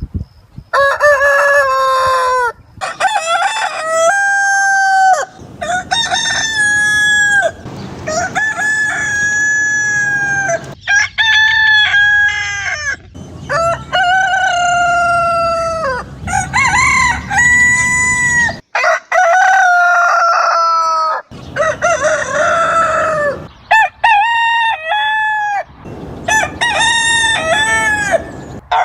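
Roosters crowing: about a dozen loud cock-a-doodle-doo crows in quick succession, each lasting one to two seconds, with brief breaks between them.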